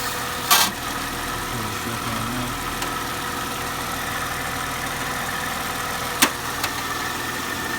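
Mercedes SLK 320's V6 engine idling steadily while warming up. Two sharp clicks sound over it, about half a second in and again about six seconds in.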